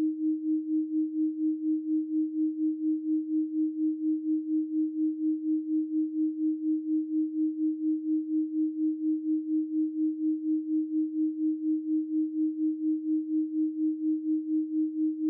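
A steady 312 Hz pure sine tone, a single low hum with no overtones, swelling and fading evenly about three times a second.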